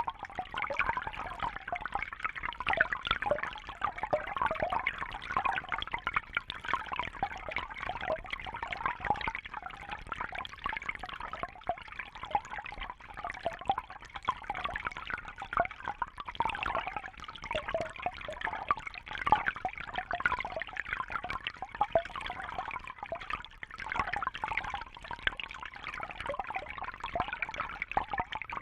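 Water trickling and bubbling steadily, with many small gurgles and drips.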